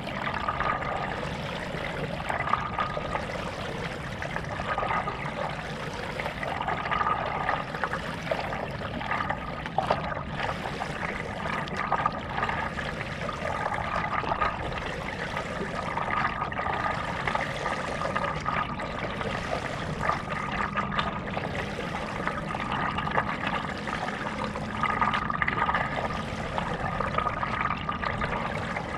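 Paddle strokes in lake water from a stand-up paddleboard: steady splashing and trickling that swells with each stroke every couple of seconds.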